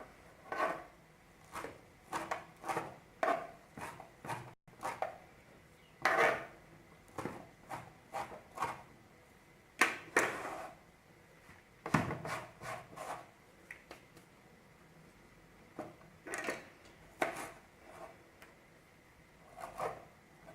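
Knife cutting a bunch of fresh alfalfa on a wooden board: irregular clusters of cuts and rubbing, with short pauses between them.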